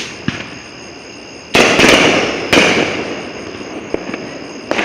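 Fireworks going off close by: two loud bangs about a second apart, one about one and a half seconds in and one about two and a half seconds in, each trailing off. Smaller sharp pops come before and after them.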